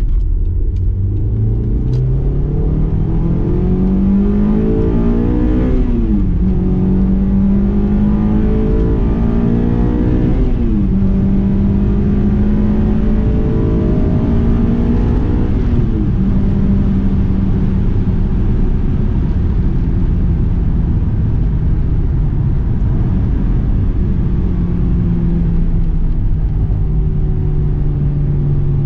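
Honda S2000 AP2's 2.2-litre VTEC four-cylinder, heard from inside the cabin, accelerating hard up a highway on-ramp. The revs climb high in each gear, with upshifts about 6, 10 and 16 seconds in, then settle to a steady highway cruise that eases off slightly near the end, over steady road rumble.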